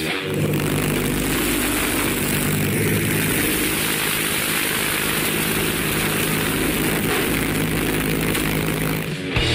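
Six-cylinder aircraft piston engine running at a steady speed: a loud, even drone with a low hum under it. It cuts off about nine seconds in.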